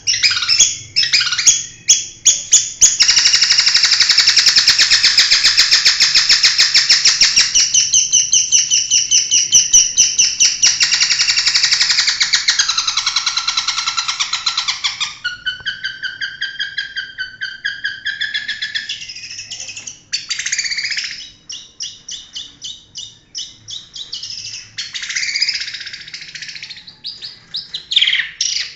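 Long-tailed shrike (cendet) singing loudly: high, sharp notes repeated rapidly, merging into a long fast unbroken run for about twelve seconds, then breaking into varied shorter phrases.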